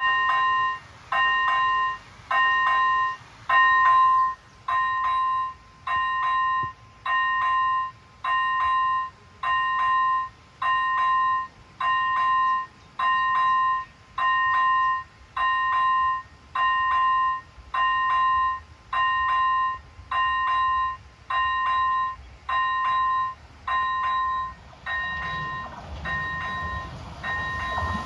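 Railway level crossing warning signal sounding a repeated electronic beep about once a second. Near the end the beeps grow fainter as the low rumble of an approaching train rises.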